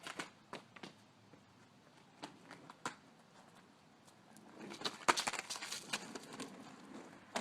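Light handling noise: a few scattered small clicks and taps, then a stretch of close rustling and crackling from a little past halfway.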